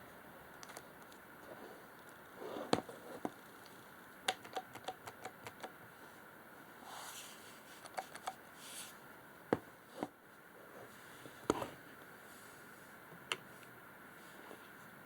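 Scattered light clicks and knocks of objects being handled, including a quick run of small ticks about four seconds in. No drill is running.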